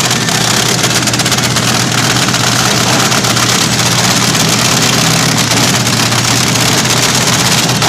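Vintage drag racing car's engine running loud and steady, holding its speed without revving up or down.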